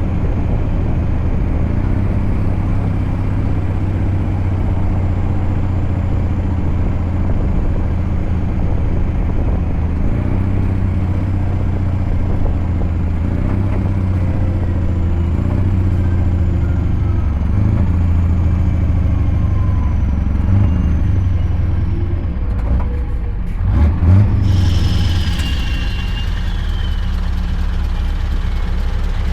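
Scania V8 diesel truck engine running steadily under way, its low hum continuous. Near the end the engine note briefly dips and surges, and a high hiss with a falling squeal joins in.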